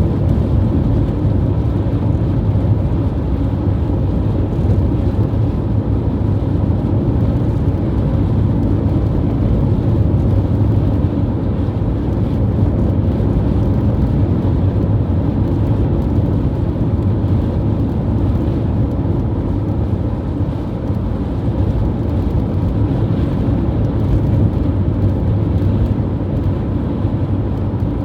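Strong wind rumbling steadily on the microphone, deep and loud, swelling and easing slightly.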